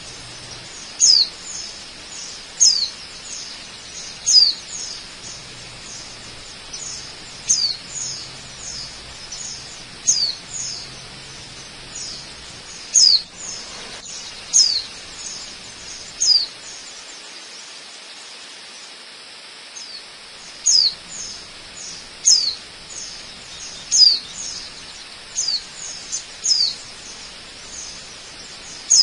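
A bird calling over and over, each call a short high note sliding down in pitch, about one every second or so, with a pause of a few seconds past the middle. Under the calls runs a steady even hiss of falling water.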